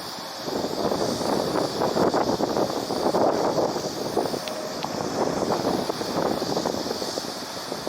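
Korean Air Boeing 747's four jet engines at takeoff power, a loud rough roar with a crackling texture that swells about half a second in.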